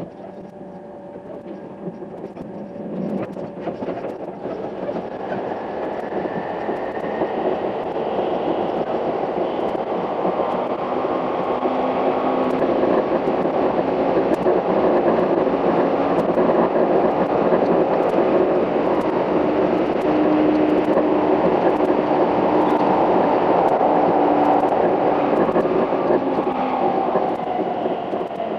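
Limited express electric train running on the rails, heard from inside the passenger car: a steady rumble that grows louder over the first half and holds, with a faint steady hum at times.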